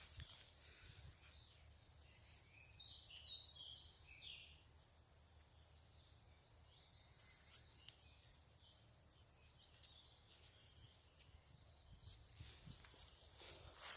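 Faint wild birdsong: a short run of quick chirps a few seconds in, then only scattered faint calls over a low, quiet background.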